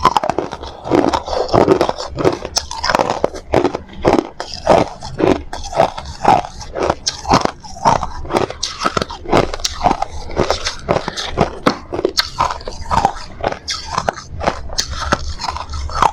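Hard ice being bitten and chewed close to the microphone: a quick, continuous run of sharp crunches and cracks.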